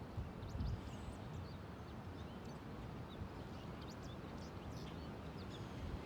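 Birds chirping in short, scattered calls over a steady low rumble of wind.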